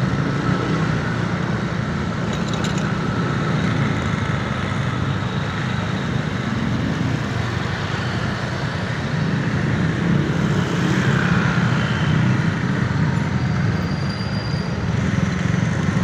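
Steady rumble of a motor vehicle moving along a road, engine and road noise with no sharp events.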